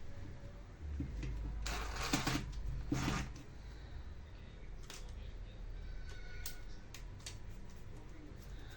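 Workbench handling noises during a tool repair: two scraping, rustling noises about two and three seconds in, over a low hum, then scattered light clicks of small parts and tools.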